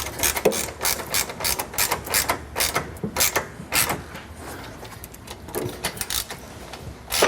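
Hand ratchet wrench clicking in a quick run of strokes as a bolt is run down, then a few more clicks after a pause and one sharp click near the end.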